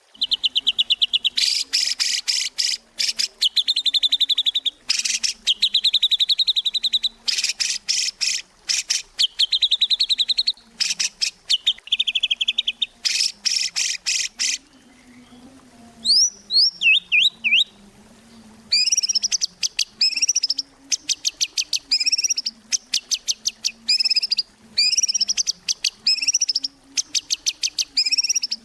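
White-rumped shama singing without pause: fast rattling series of rapidly repeated notes, then, from about halfway through, clear whistled phrases that rise and fall and are repeated again and again.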